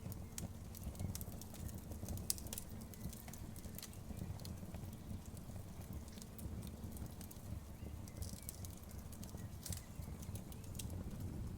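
Outdoor wood fire crackling: irregular sharp pops and snaps over a steady low rumble of the burning fire.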